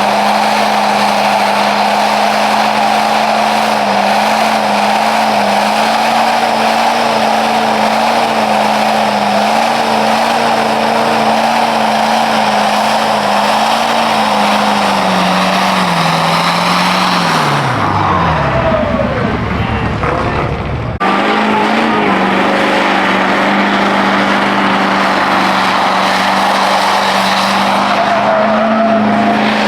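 A truck doing a burnout: the engine held at high revs while the spinning tyres squeal and hiss. About two-thirds of the way through, the revs wind down, then the sound cuts abruptly to the engine held at high revs again.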